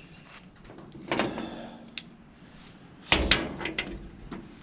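Handling knocks and scrapes against the truck: a scrape about a second in and a heavier thump about three seconds in, with small clicks between.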